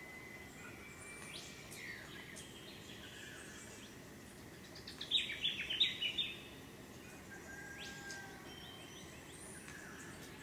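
Birds calling in the open air over a steady background hiss, with a loud burst of quick, high chirping notes about five seconds in, lasting just over a second.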